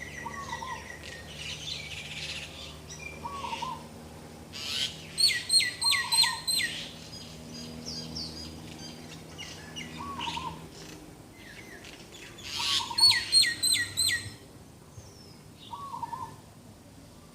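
Several birds calling. Twice there is a loud run of five or six quick, downward-sliding whistled notes, over a short lower call that repeats every few seconds and softer scattered chirps.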